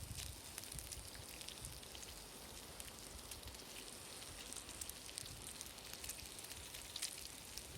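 Campfire crackling faintly: scattered small pops and ticks over a soft hiss.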